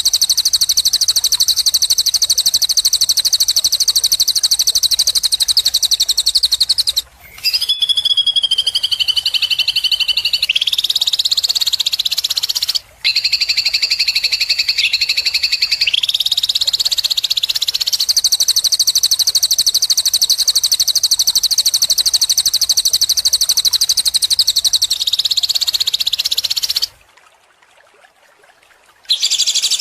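Recorded songbird song used as a masteran for training cage birds: long, very rapid, high-pitched trills in phrases several seconds long. The pitch drops and wavers about seven seconds in, climbs again, and the song stops briefly near the end before starting up again.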